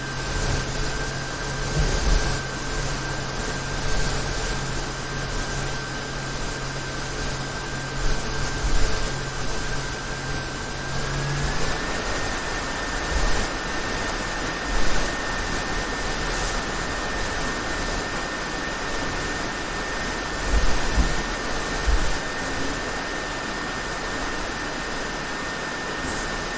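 HP OMEN 15-en1507na gaming laptop's cooling fans whirring steadily, with a high-pitched whine over the rush of air. About eleven seconds in, the whine steps up in pitch and a low hum stops as the fans change speed. This is the high-pitched whirring noise the owner treats as a problem. A few soft bumps are heard along the way.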